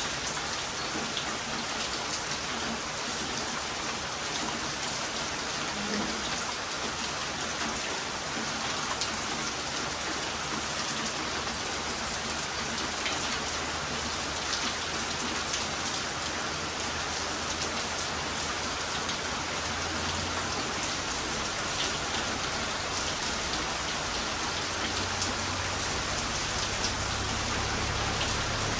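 Heavy rain falling steadily as a dense, even hiss, with scattered drop ticks. A low rumble builds in toward the end.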